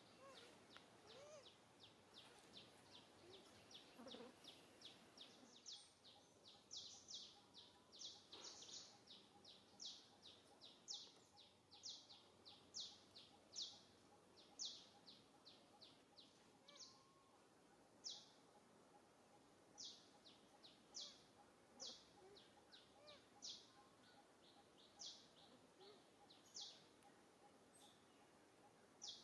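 A bird chirping repeatedly: a long run of short, high chirps, a few a second, louder through the middle, over faint outdoor background noise.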